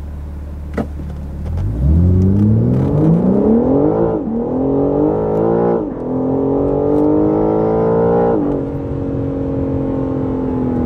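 BMW M4 Competition's twin-turbo inline-six idling, then accelerating from a standstill. The pitch climbs through the gears, with quick upshifts about four, six and eight seconds in, before it settles into a steady cruise. It is heard inside the cabin, where the engine sound is piped through the speakers.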